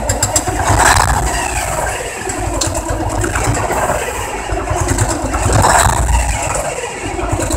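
Old diesel truck engine running just after a cold start, with a low uneven pulse and two brief rises in level about a second in and near the end.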